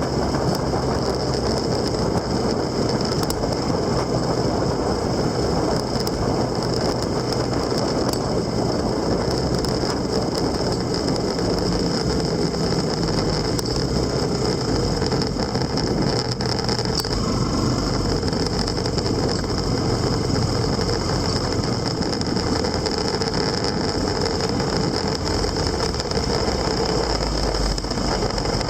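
Motorcycle engine running steadily, mixed with wind and road noise as the bike rides along, at an even level throughout.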